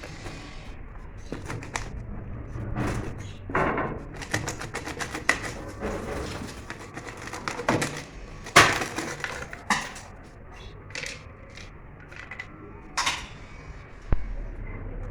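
Irregular knocks, clicks and scraping of hand work, with several sharper cracks; the loudest comes a little past halfway.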